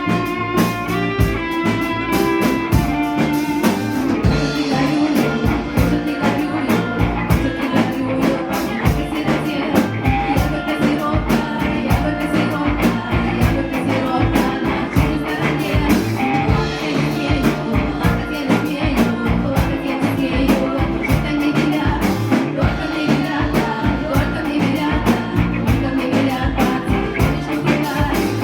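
Folk-rock band playing live: drum kit keeping a steady driving beat under guitar and held melody notes.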